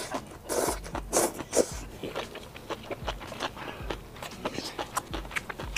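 Close-up mouth sounds of eating red-oil-dressed beef tripe off a skewer: a few short slurps and sucks in the first two seconds, then wet chewing of the crisp, chewy tripe with many small clicks.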